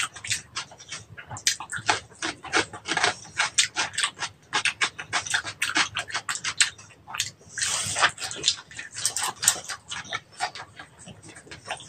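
Close-miked chewing of crispy fried pig's head skin and cucumber: a fast run of crunches and wet mouth smacks, with one longer crunch about eight seconds in.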